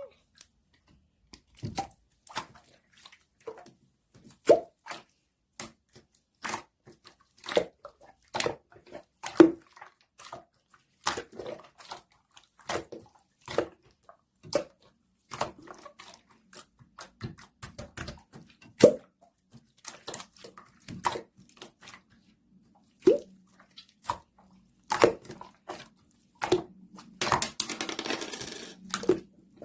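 Slime being played with by hand: a run of irregular sticky pops and clicks, one to three a second, with a denser crackling stretch near the end.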